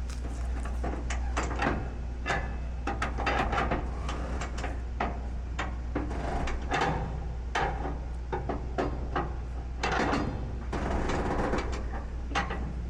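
Irregular clicks, knocks and clattering, with busier stretches about three seconds in and again about ten seconds in, over a steady low hum.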